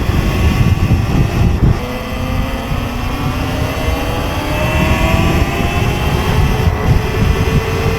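Sur-Ron electric dirt bike's motor whining as it accelerates, the pitch climbing slowly for several seconds and then holding steady. Heavy wind rumble on the microphone runs underneath.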